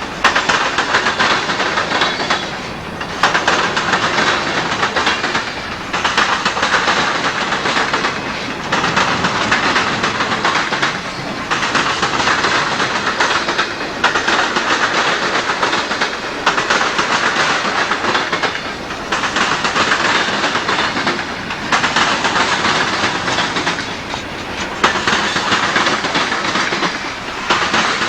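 Freight train cars rolling past, wheels clacking on the rails. The sound rises and falls at an even beat about every two and a half seconds as each car goes by.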